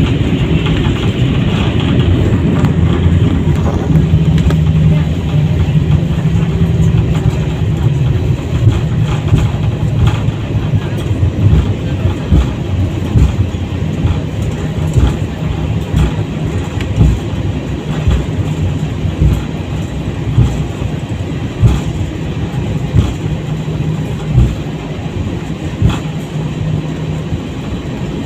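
Airliner cabin noise: a steady low rumble of the engines and the landing gear rolling on the ground, with irregular thumps and knocks as the wheels run over pavement joints and bumps.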